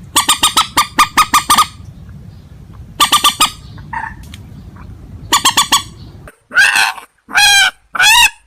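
Rail-family waterbird calling loudly. It gives three fast runs of short repeated notes, about eight a second, then three longer calls with a wavering pitch near the end.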